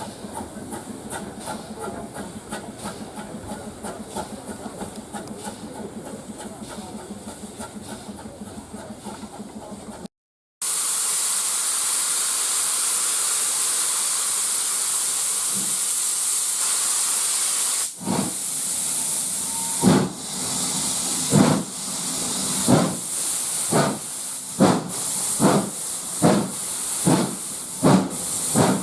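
Train running with a faint regular clatter. After a cut, a steam locomotive sounds a loud steady hiss of steam. It then starts away with exhaust chuffs that begin slowly and quicken.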